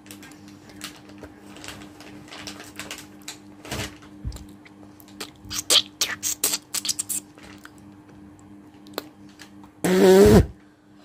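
A woman hawking phlegm up from her throat and spitting, in a series of short rasping hawks. About ten seconds in comes one loud, short, throaty hock that drops in pitch. A steady low hum lies underneath.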